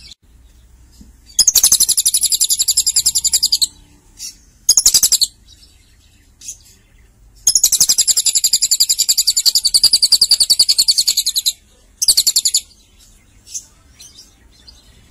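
Lovebird giving long, rapid, high chattering trills (ngekek). There are two long runs, about two and four seconds each, with short bursts between them.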